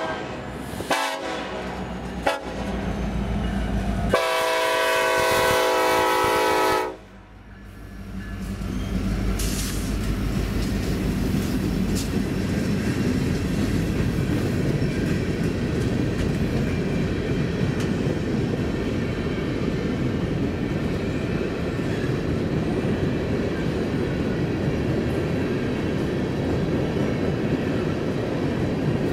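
Diesel locomotive air horn sounding two short blasts, then a long blast of nearly three seconds that cuts off sharply. The lead unit's engine passes, and then comes the steady rumble and wheel clatter of a train of empty coal hoppers rolling by.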